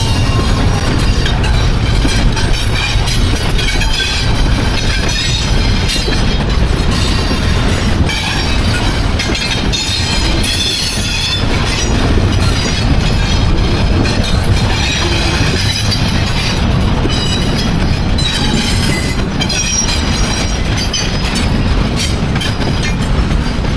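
Freight train rolling past: a steady rumble of steel wheels on the rails, with faint, intermittent high-pitched wheel squeal.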